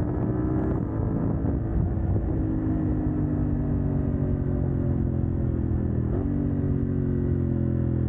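CF Moto 800NK's parallel-twin engine with the catalytic converter removed, running under way as the bike is ridden, its note slowly sinking in pitch with a short jump up about six seconds in. Wind and road noise run underneath.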